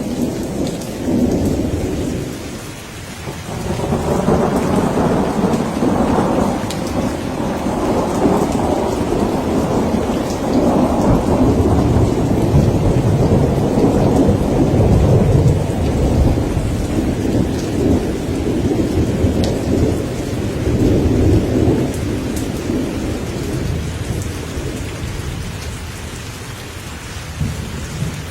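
Steady rain with a long rolling thunder rumble. The rumble swells about four seconds in, stays loud for most of the stretch, and fades off near the end.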